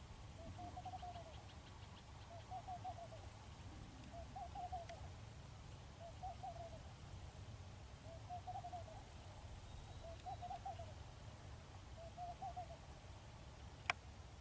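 A bird calling faintly: a short, low-pitched phrase of a few quick notes, repeated about every two seconds. A fainter high rasp comes between the phrases, and a single sharp click near the end is the loudest sound.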